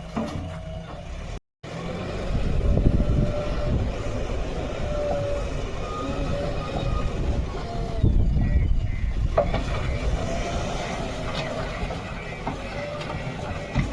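Diesel engines of earthmoving machinery running, a heavy low rumble with a wavering mid-pitched tone over it. The sound breaks off completely for a moment about a second and a half in.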